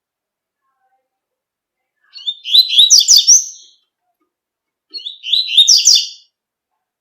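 A male double-collared seedeater (coleiro) singing in the 'tui-tui' song style: two short, high phrases of rapid down-slurred notes, starting about two and five seconds in.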